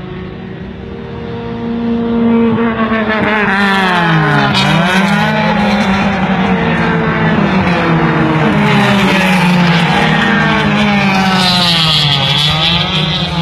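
Race car engine revving hard. Its pitch repeatedly climbs and then drops sharply, as with gear changes and lifting off, and it gets louder about two seconds in.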